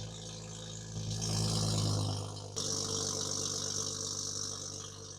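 Exhaust of a 2019 BMW X5 40i's turbocharged 3.0-litre inline-six idling shortly after a cold start, through a catless downpipe. The idle swells louder about a second in and changes abruptly at about two and a half seconds.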